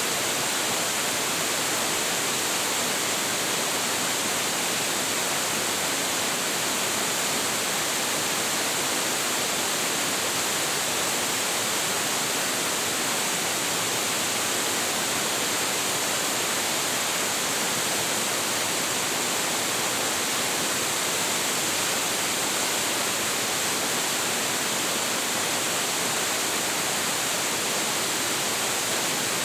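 Large waterfall crashing steadily into its plunge pool, a constant, unchanging roar of falling water heard close up.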